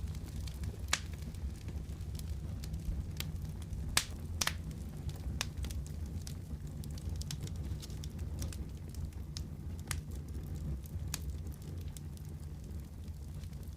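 Wood fire in a fireplace crackling: a steady low rumble of burning with scattered sharp pops, a couple of louder ones about one and four seconds in.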